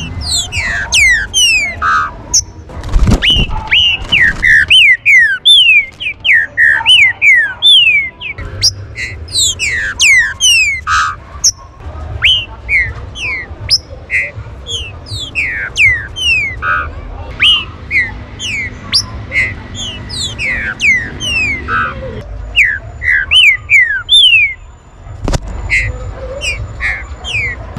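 Green-winged saltators (trinca-ferro) calling in a rapid, overlapping series of short whistled notes that fall steeply in pitch. A low thump comes about three seconds in and another near the end.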